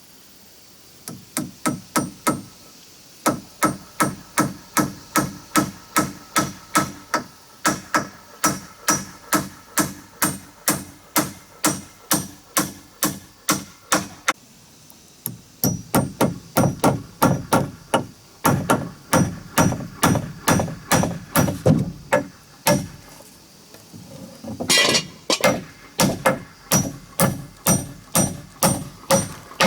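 Hammer striking over and over at a steady pace of about two to three blows a second, each blow with a slight ring, in long runs broken by a few short pauses.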